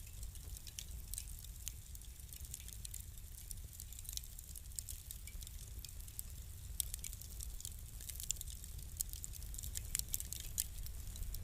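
Wood fire crackling: irregular sharp pops and snaps, a few louder ones in the second half, over a low steady rumble of the burning fire.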